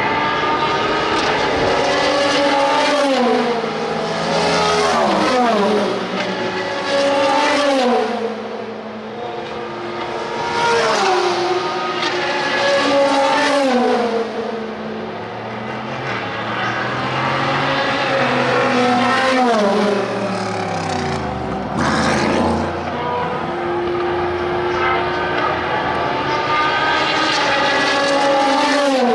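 IMSA sports-racing cars on track, several engines at once, their notes dropping in pitch step by step as they change gear. About twenty seconds in, one car's note sweeps steeply down as it passes close.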